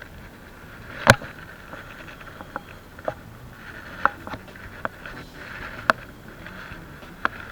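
A series of sharp clicks and knocks at irregular intervals, the loudest about a second in, over a faint steady hiss.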